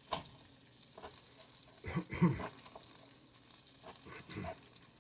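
Kitchen cooking sounds: a few scattered, irregular knocks and clicks of utensils and food being handled, loudest in a short cluster about two seconds in.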